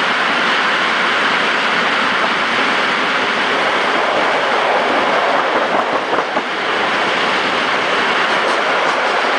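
Regional passenger train running at speed, heard from an open window: the steady rush of wheels on the rails mixed with wind blowing on the microphone, dipping briefly about six seconds in.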